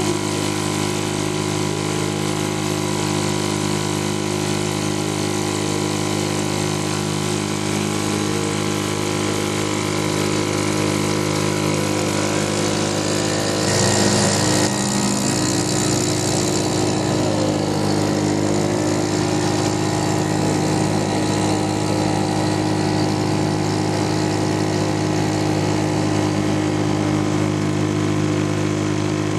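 British Seagull two-stroke outboard motor running steadily at a constant speed. Midway there is a brief, louder burst of hiss.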